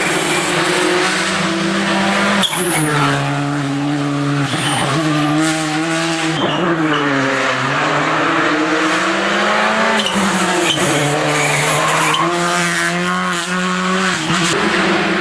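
Rally car engine revving hard, its pitch climbing and falling again and again through gear changes and lifts off the throttle, with sharp drops about two and a half seconds in and again about ten seconds in.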